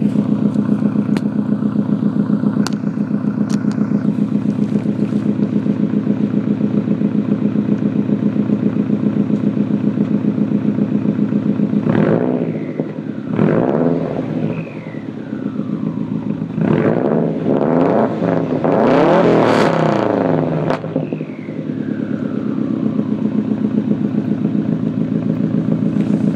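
2005 Subaru Legacy 2.5GT's turbocharged flat-four idling through a 3-inch straight-pipe exhaust with a high-flow cat and no muffler. About halfway through it is revved about four times, the last rev the longest and loudest, then it settles back to a steady idle.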